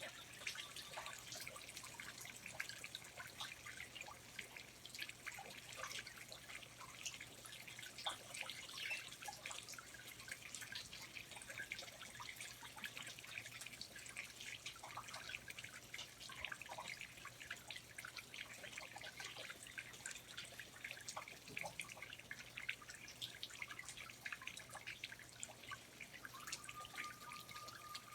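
Rainforest water drops falling, a faint, dense patter of many small drips. Near the end a thin, steady tone comes in.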